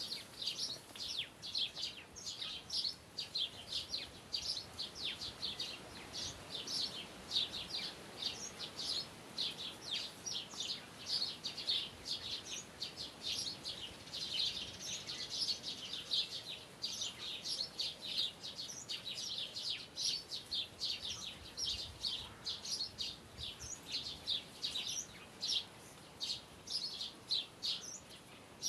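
Birds chirping: a steady stream of short, high chirps, several a second, without pause.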